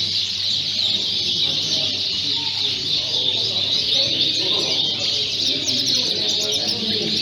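Many Fife canaries chirping and singing at once: a dense, continuous chorus of high chirps and trills, over a low background murmur.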